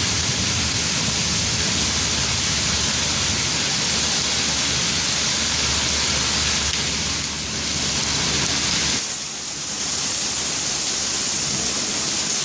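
Heavy rain falling, a steady hiss that eases briefly twice, a little past seven seconds and again around nine seconds.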